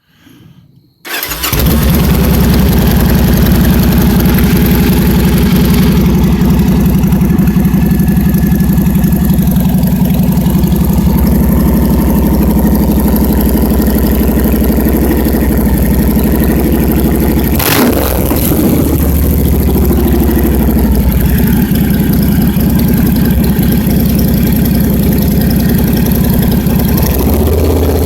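A 2002 Victory V92C's 92-cubic-inch V-twin on chrome straight pipes fires up about a second in, then runs loud and steady at idle through the open pipes. One single sharp crack comes about two-thirds of the way through.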